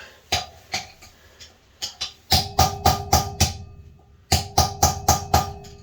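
Metal-on-metal tapping as a part is knocked into place in a dirt bike's rear wheel hub using a flathead screwdriver: a few light taps, then two quick runs of about five ringing strikes each.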